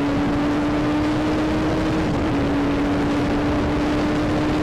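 Motorcycle engine running at nearly constant revs while riding, its pitch creeping slightly upward, over heavy wind rush on the microphone.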